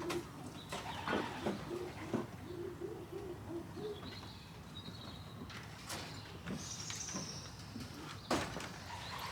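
Pigeons cooing, a run of low coos in the first three seconds or so, then a few faint high chirps. Several sharp knocks come in between, near the start, around two seconds and late on.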